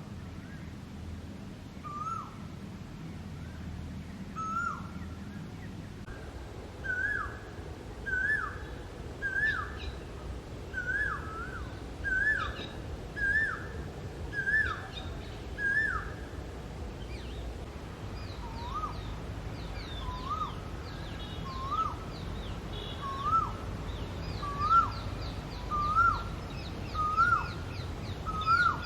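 Male Asian koel calling: a short rising note repeated about once a second, the series climbing in pitch and getting louder. A second series starts lower about two-thirds of the way through. Fainter high chirps from other birds come in near the end.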